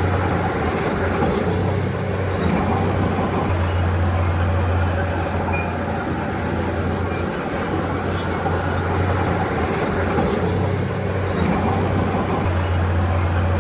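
Diesel engine of a Komatsu D31P crawler bulldozer running hard, its low drone swelling and easing every few seconds as the load comes and goes, with faint squeaks and clinks from the steel tracks.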